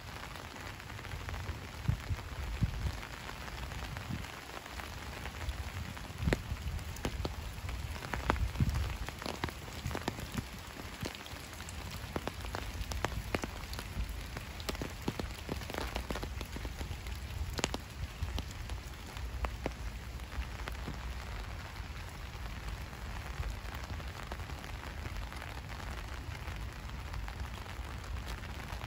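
Steady rain falling, with many individual drops ticking sharply close by over a low rumble.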